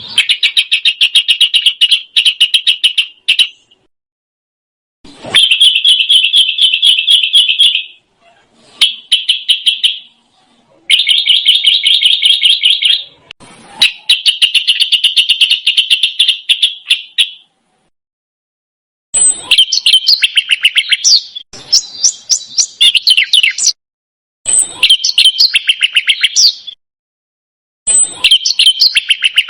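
A small songbird singing very fast, tight rolling trills in phrases of two to four seconds with short pauses between them. From about two-thirds of the way in the phrases turn into more varied, choppy twittering. This is the close, clear 'roll' style of song used as masteran, a tutor recording for competition songbirds to copy.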